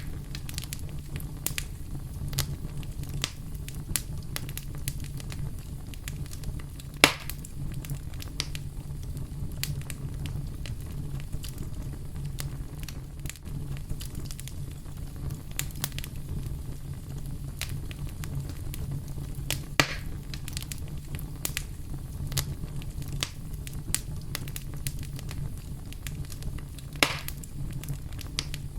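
Campfire burning: frequent small crackles over a steady low rumble, with three louder pops spread through.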